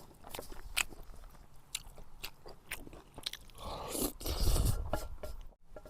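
Close-up eating sounds: chewing with many short, sharp crunchy clicks, and a louder rushing noise lasting about a second and a half about four seconds in.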